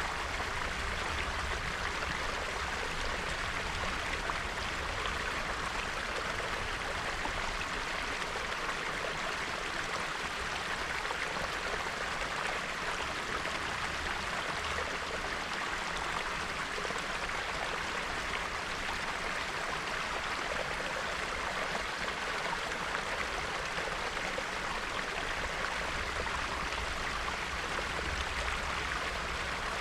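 Small shallow stream bubbling and babbling steadily over its bed, swollen with snowmelt.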